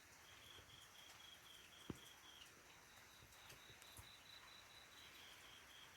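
Faint cricket chirping: a high, evenly pulsed trill that pauses briefly midway and resumes. A single soft click about two seconds in.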